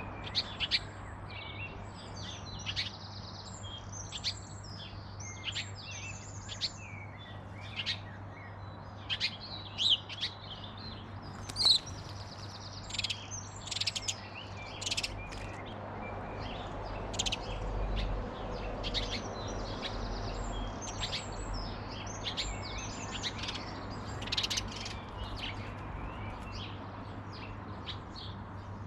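Several small garden birds chirping and singing, many short calls and trills overlapping all the way through, over a faint steady low hum.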